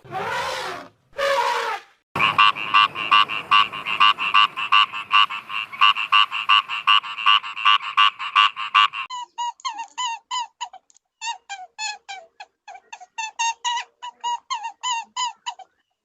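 Animal calls: a fast series of evenly repeated pulsed calls for several seconds, then a run of short, falling-pitched chirps.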